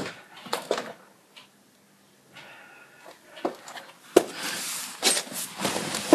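Scattered clicks and knocks from someone handling things around a parked car, with rustling in the second half; the engine is not running.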